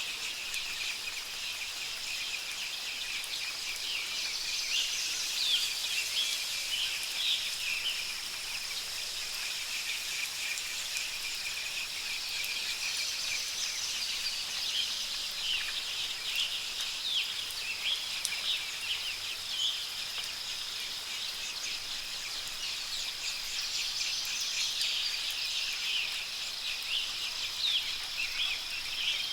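Many birds chirping and trilling in a continuous chorus over a steady high-pitched hiss with a constant thin whine.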